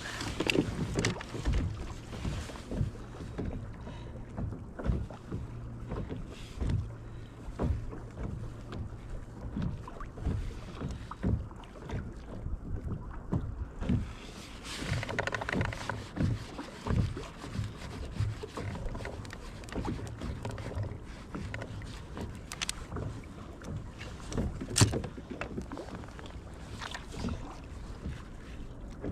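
Irregular knocks and clicks on a kayak as fishing tackle is handled, over a steady low rumble. One sharper knock stands out about 25 seconds in.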